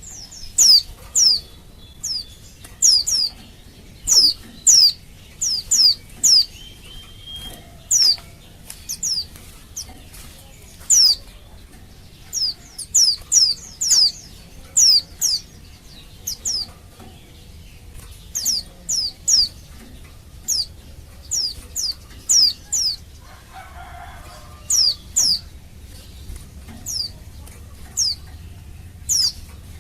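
Female white-eye (pleci) calling: short, high chirps that slide downward, often in pairs or quick runs, repeated irregularly throughout. It is a female's call to males, the kind used to get male white-eyes to answer and sing.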